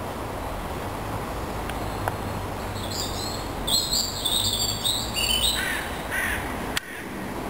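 Wild birds calling in the tree canopy over a steady outdoor background: after about three seconds a quick run of short, high chirping notes, then two lower calls near the end.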